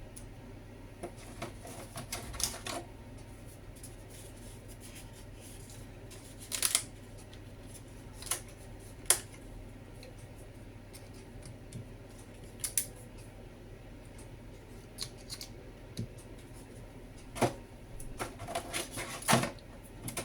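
Scattered light clicks, taps and scrapes of hands and utensils working in a lasagna dish as layers are laid in, with a few sharper taps and a low steady hum underneath.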